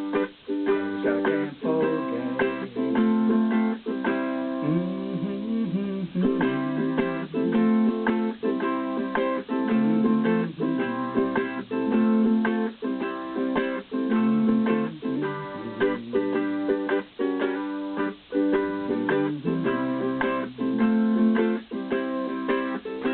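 AKLOT tenor ukulele, newly strung, strumming chords in a steady rhythm through an instrumental break of the song.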